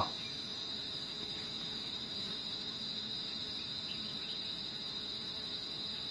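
Steady, high-pitched chorus of insects trilling in the background, unbroken throughout.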